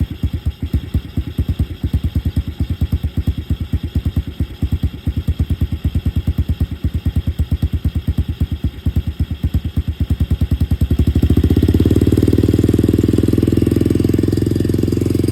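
SYX Moto 125cc pit bike's single-cylinder engine idling with an even thumping, about eight beats a second. About eleven seconds in it is throttled up to a louder, smoother, steady running sound.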